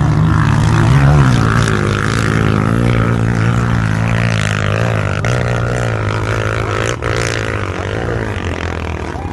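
Motorcycle engine running hard at high revs as it climbs a steep dirt hill, its pitch wavering, slowly getting fainter as the bike pulls away up the slope.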